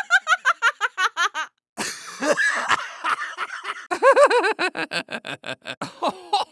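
Laughter in rapid bursts of pitched ha-ha pulses, about six or seven a second, with a short rough, breathy stretch about two seconds in.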